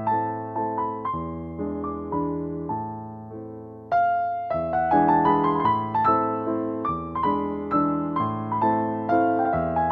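Background piano music: a soft melody of single notes over held bass notes, with a fresh phrase starting about four seconds in.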